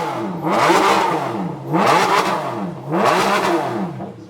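Ferrari Enzo's V12 free-revved while stationary: about three sharp throttle blips, roughly one a second, each pitch climbing and falling back toward idle before the next.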